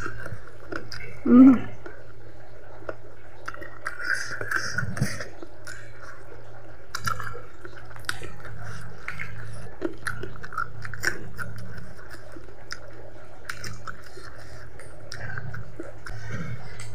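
A person chewing chicken feet and rice with many small wet mouth clicks and smacks, a louder one about a second and a half in. A steady low hum runs underneath.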